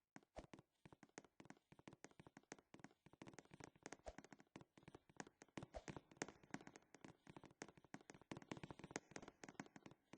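Faint crackle of rapid, irregular clicks and pops, many per second, growing busier about three seconds in.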